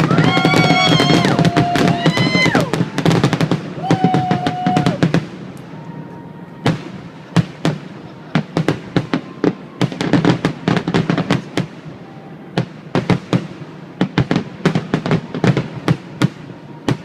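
Fireworks display: a dense run of bangs with music playing over it for the first few seconds, then rapid, sharp crackling pops and cracks from the bursting shells for the rest.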